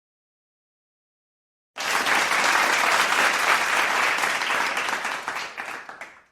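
A crowd applauding: many hands clapping at once in a dense, steady patter. It starts suddenly about two seconds in and tapers off near the end.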